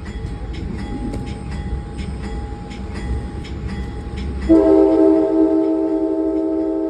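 MARC commuter train running with a steady low rumble. About four and a half seconds in, the horn comes in with a long, loud blast of several tones together, sounded for a grade crossing.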